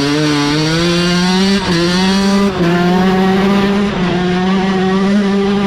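Dirt bike engine at full throttle under hard acceleration, its note climbing, breaking briefly twice in quick gear changes, then holding at high revs.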